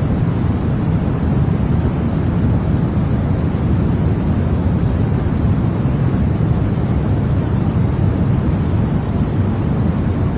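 Continuous synthetic white-noise track for lulling a baby to sleep: an even, unbroken hiss, weighted toward the low end so it sounds like a deep, steady rumble.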